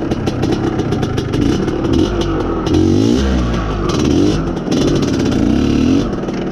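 IZh Planeta Sport motorcycle's single-cylinder two-stroke engine running and revved up and down several times. The owner blames its poor running on a lean mixture from a worn carburettor.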